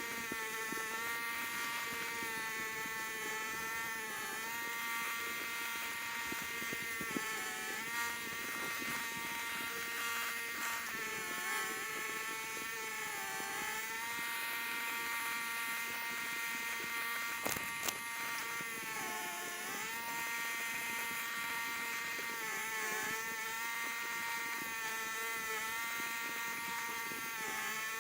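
A small engine running steadily with a buzzing drone. Every few seconds its pitch sags briefly and recovers, as if it is being loaded. A couple of sharp knocks come a little past the halfway point.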